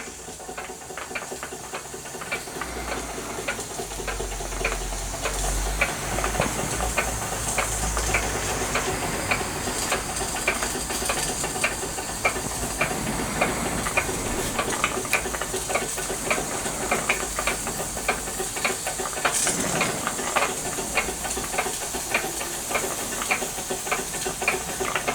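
Wilesco D455 model steam engine running slowly under steam: a steady steam hiss with a regular ticking beat of the piston exhaust, about two to three beats a second, growing louder over the first few seconds.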